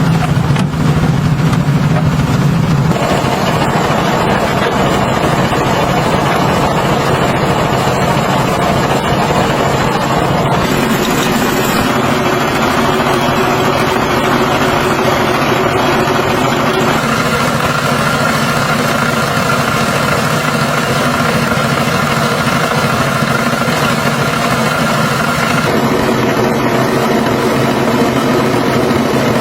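Tractor engine running steadily, its note shifting several times.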